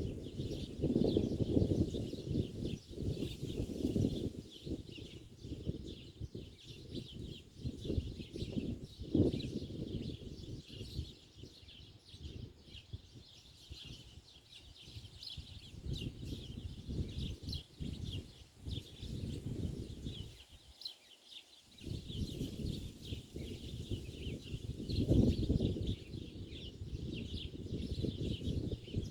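Many small birds chirping continuously in a dense high-pitched chorus. A low rumbling noise swells and fades under the chirping and is louder than the birds; it drops away briefly about two-thirds of the way through.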